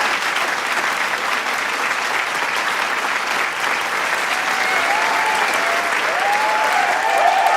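Large crowd applauding with dense, steady clapping. From about halfway through, voices in the crowd start calling and whooping over the clapping.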